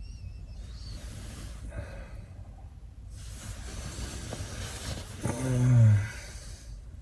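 Film soundtrack playing on a device: swells of hissing, breathy noise, then a short deep growl that drops in pitch about five seconds in.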